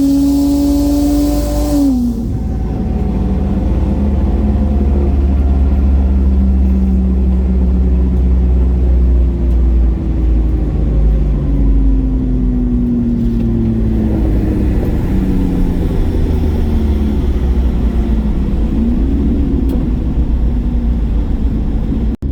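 BMW N54 straight-six with a Precision 6466 single turbo at 17 psi of boost, pulling at high revs with a steady tone that drops off suddenly about two seconds in as the throttle is lifted. It then runs on at lower revs over a constant deep rumble, its pitch sliding slowly down and rising again briefly near the end.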